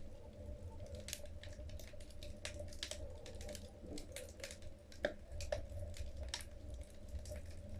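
Wood logs burning in a fireplace, crackling with irregular sharp pops, the loudest about five seconds in, over a low steady rumble.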